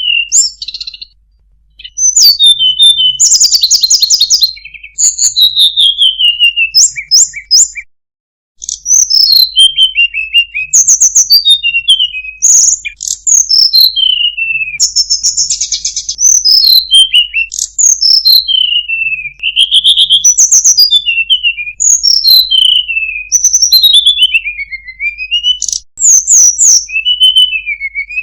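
Recorded songbird calls used as masteran training audio: a fast, varied run of high chirps, falling whistled notes and clicky chattering, with brief pauses about a second in and near eight seconds.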